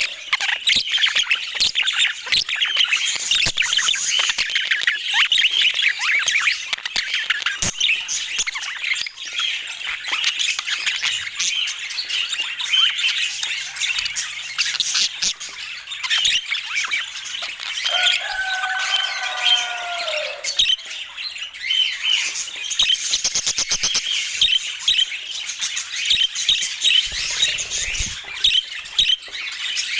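Budgerigars chattering and squawking continuously in quick, high chirps, with a lower call that bends downward in pitch about 18 seconds in.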